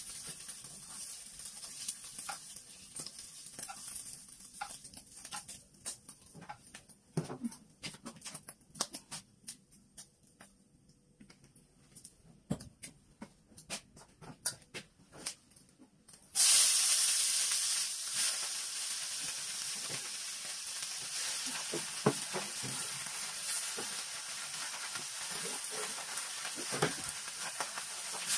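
Light scattered clicks and taps of utensils on a wok and dishes. A little past halfway, a sudden loud sizzle as garlic chives go into hot oil in a wok. It settles into a steady frying sizzle with the taps of chopsticks stirring.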